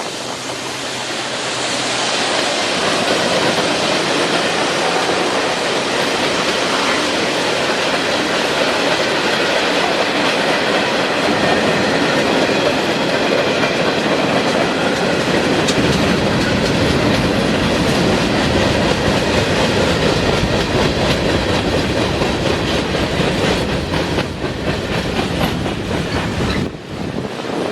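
Norfolk Southern freight train rolling past, its cars running steadily with wheels clacking over the rail joints.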